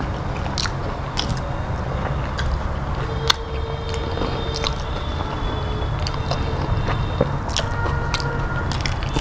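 Close-up chewing and lip smacks of a person eating rice by hand, with wet squishing as fingers mix rice with dal and fried vegetables. Scattered sharp smacks, the loudest about three seconds in, over a steady low hum.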